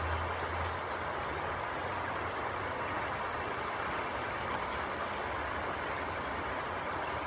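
Steady rushing of river water, an even noise that holds without a break.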